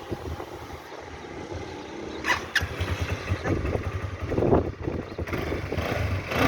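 Quad bike engine running, its low rumble growing louder about halfway through.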